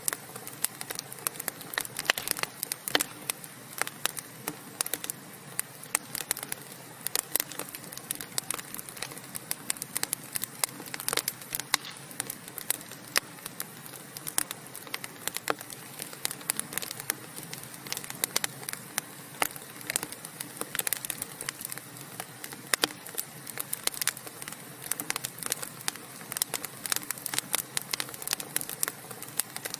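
Logs burning in a fireplace, crackling with many irregular sharp pops and snaps over a steady low hiss.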